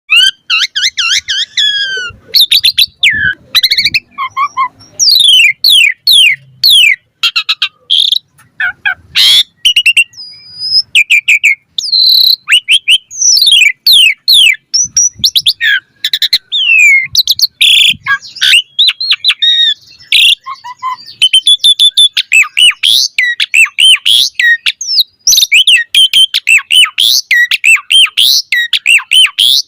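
Asian pied starling (jalak suren) singing a long, varied song: rapid whistled notes sweeping up and down, mixed with a few harsh clicking notes, with hardly a pause.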